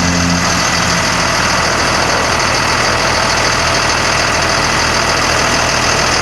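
Caterpillar diesel engine of a 1991 GMC Topkick bucket truck idling steadily. Its low hum fades about a second in, leaving an even rumble.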